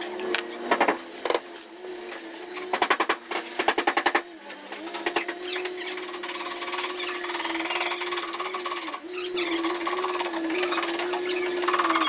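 Paintless dent repair tapping on a car fender: rapid trains of light hammer taps in short bursts. From about five seconds in, a steady hum holds one pitch.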